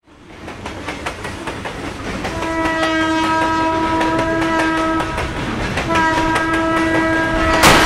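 Train horn sounding two long warning blasts, the first starting about two seconds in and the second following about a second after it stops, over the clicking of the train's wheels running on the track. A sharp bang near the end.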